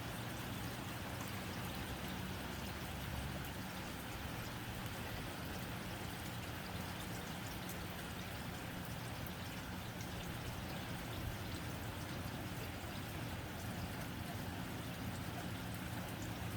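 Steady rain drumming on a tin roof: an even, continuous hiss with scattered light ticks of individual drops.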